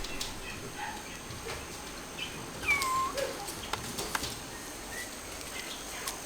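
A Bengal kitten meowing once, a short call falling in pitch, about three seconds in, among light scattered clicks and taps.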